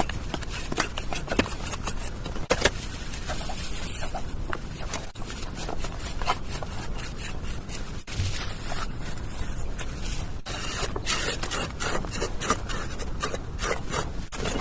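A hand tool scraping and rubbing on cement, with many small irregular clicks and taps.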